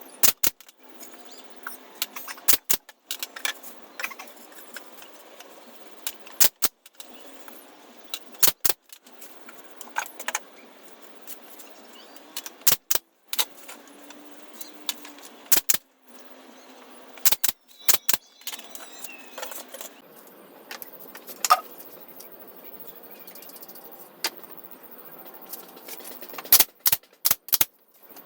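Irregular sharp knocks and clicks from woodworking on pallet wood, with a quick run of strikes near the end.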